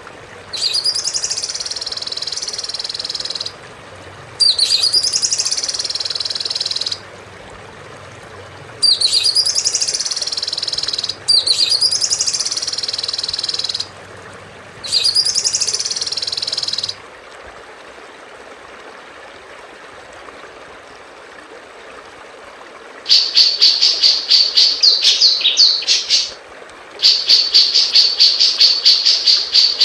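Recorded songbird song played as masteran (song-tutoring) material. A high phrase with a quick rising-and-falling sweep into a held note comes five times with short gaps. After a pause, a fast series of sharp high notes, about four a second, follows with one brief break.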